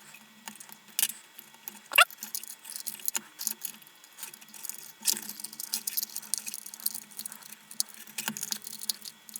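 Small metal wire connectors being crimped and handled with pliers: scattered sharp clicks a few seconds apart, light metallic rattling and ticking between them, and a short rising squeak about two seconds in.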